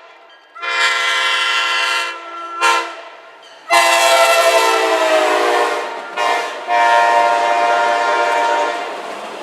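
Amtrak passenger locomotive's air horn sounding five blasts, long, short, long, short, long. Its pitch drops during the middle blast as the train passes, and the last blast fades away.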